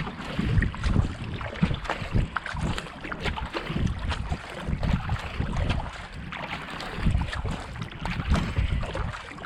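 Kayak paddle blades dipping and pulling through canal water in a steady rhythm, with wind buffeting the camera microphone.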